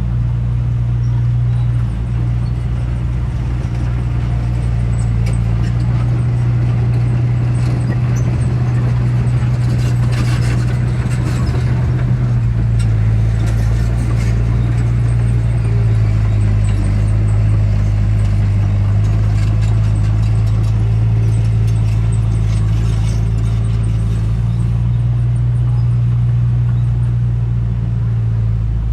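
Heavy diesel engine of earthmoving machinery running steadily, with a stretch of clattering about ten seconds in.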